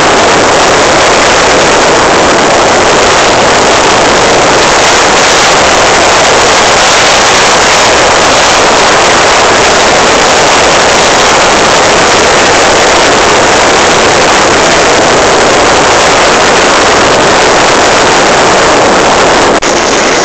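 Loud, steady rush of wind and water against the microphone while being towed at speed behind a jet ski, with no clear engine note standing out of it. It changes briefly just before the end.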